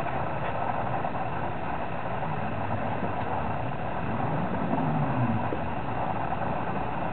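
Honda Civic Si and Pontiac GTO 6.0 engines idling at the drag-strip start line, heard from a distance. One engine revs up and back down briefly about four and a half seconds in.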